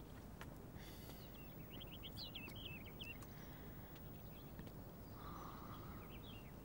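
Faint background ambience with small birds chirping in quick, wavering runs, about a second and a half in and again near the end, over a low steady background noise.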